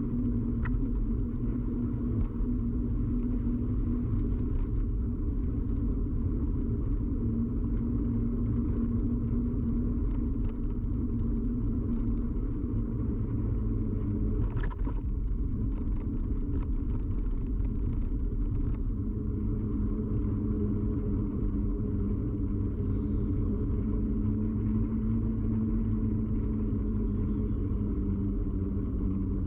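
Steady low rumble of a bicycle in motion, picked up by a camera clamped to the bike, with tyre and road vibration carried through the mount and a faint hum that shifts slightly in pitch partway through. One sharp click about halfway through.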